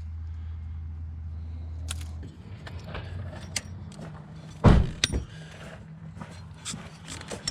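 Clicks, rattles and knocks of hands working the metal and plastic parts of a car's gear-shift cable linkage. A loud knock comes a little past the middle. A low steady hum stops about two seconds in.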